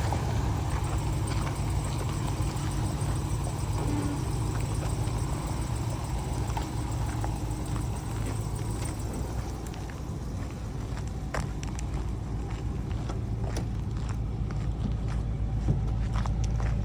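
2017 Ram 3500 pickup truck engine idling steadily, with a few light clicks in the second half.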